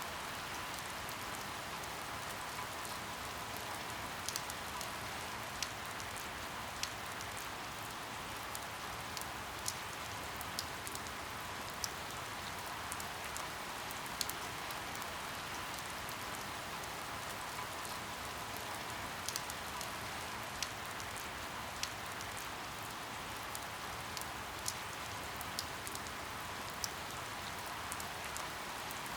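Steady rain hiss with sharp, separate drops ticking irregularly about once a second.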